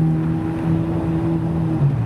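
Supercar engine running with a loud, steady note that drops in pitch near the end.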